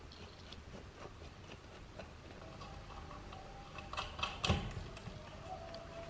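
Faint scattered clicks, then a short cluster of knocks about four seconds in, the loudest a little after, with a faint steady tone underneath in the second half.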